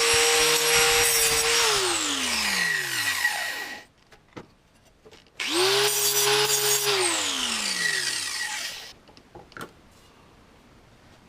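Angle grinder with a grinding disc grinding steel, switched off and winding down with a falling whine, then started again for a short burst and wound down a second time.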